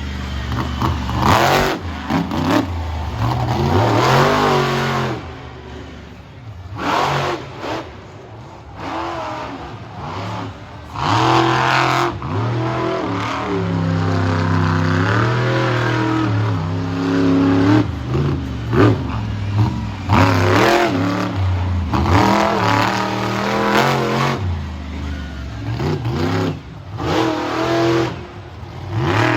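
Monster truck engine revving hard and backing off again and again, its pitch climbing and falling in repeated surges.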